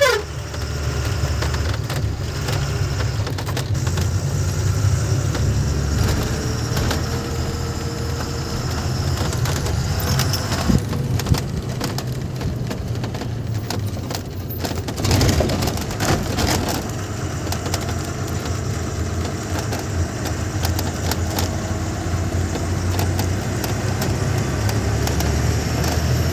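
Ashok Leyland truck's diesel engine running while the truck is driven, a steady low drone, with scattered clicks and rattles around the middle.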